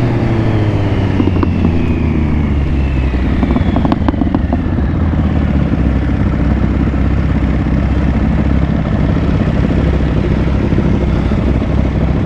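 Motorcycle engine running steadily at riding speed under a constant rush of wind and road noise. Over the first three seconds a second motorcycle's engine note falls in pitch as it passes and pulls away.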